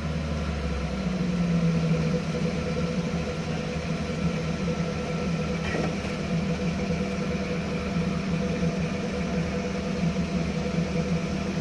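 Off-road vehicle engine idling steadily, heard from inside the open cab as a low, even drone.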